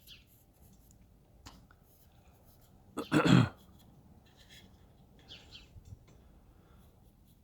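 Faint pencil strokes scratching on carved basswood, with one short, loud vocal sound about three seconds in.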